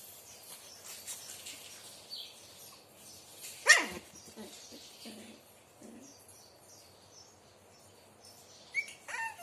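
Puppy yelping: one loud yelp that falls in pitch about four seconds in, a few short soft low sounds after it, and another high falling yelp near the end.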